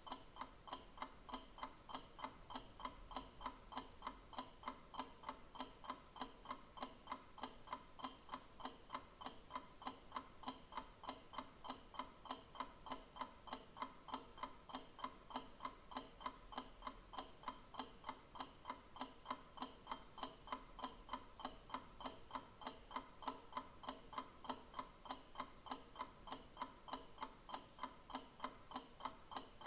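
Clock ticking steadily, with quick, evenly spaced ticks all of the same strength.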